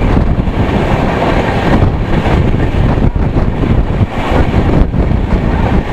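Passenger train running at speed, heard from an open door or window of its coach: a steady loud rumble of wheels on rail, with wind buffeting the microphone.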